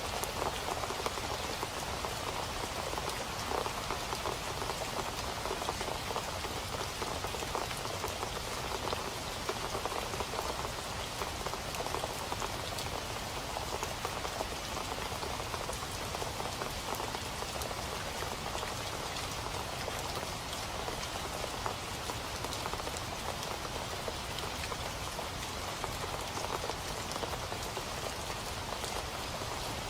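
Steady rain falling on a surface, an even hiss with many individual drop ticks.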